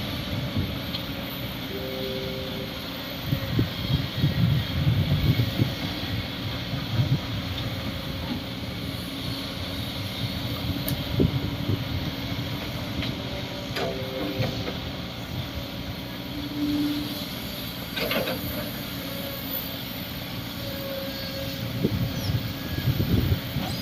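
Komatsu D58 bulldozer's diesel engine running steadily with low rumbling surges as it works, and a few sharp metallic knocks.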